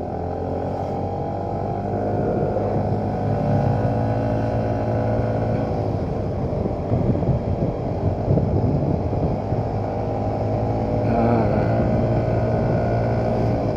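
Motorcycle engine running steadily on the move, its note shifting only slightly.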